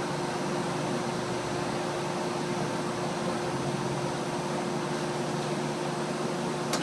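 A 1977 Payne air conditioner running steadily: an even whooshing noise with a constant hum. A sharp click comes right at the end.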